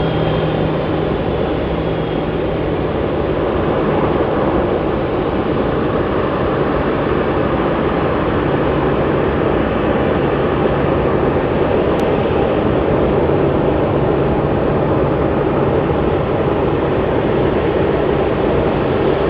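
Jet airliner engines running loud and steady, with a low hum and a faint high whine that fades in the first two seconds.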